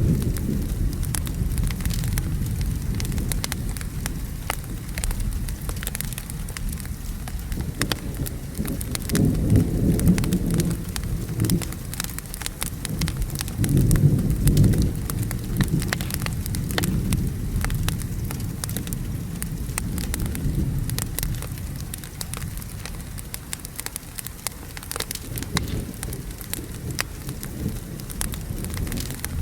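Wood fire crackling with many small pops over steady rain, with rolling thunder that swells twice, about nine and fourteen seconds in.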